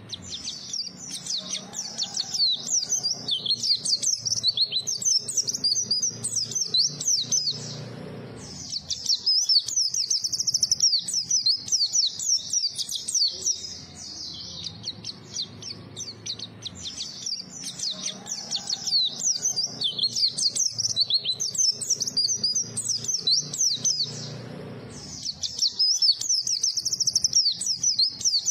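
A white-eye (pleci) singing a rapid, high-pitched twittering song in long phrases, broken by short pauses.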